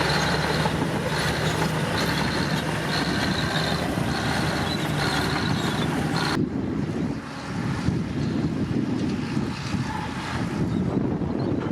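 Komatsu D65P bulldozer's diesel engine running under load, with a high whine that pulses about once a second. A little past halfway the sound abruptly turns duller, with wind on the microphone.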